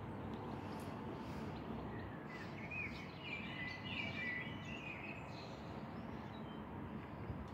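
A small bird calling, a run of short wavering chirps and trills in the middle, over a steady outdoor background noise.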